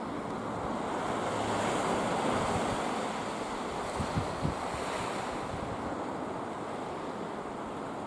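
Sea surf washing against an offshore rock in a strong wind, a steady rushing with wind buffeting the microphone. About halfway through come three short low thumps.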